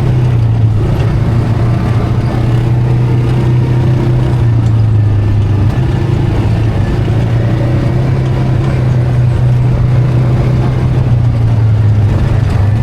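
ATV engine running steadily and loudly, its pitch wavering only slightly.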